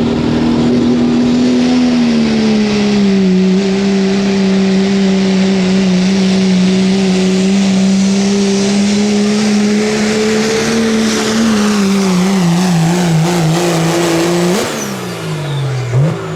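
Diesel pulling truck of the 2.6-inch turbo class at full throttle under load, its engine note holding steady and sagging slightly as the sled bears down. The pitch wavers near the end, then the engine is let off about fourteen seconds in and winds down.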